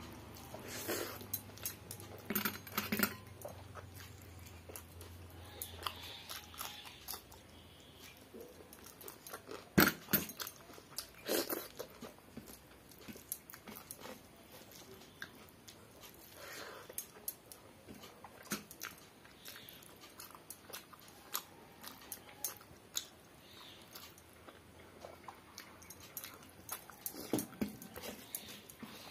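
Close-up eating sounds: chewing and lip-smacking of hand-eaten rice and curry, with scattered short clicks and taps as fingers work the rice on a steel plate, the sharpest about ten seconds in.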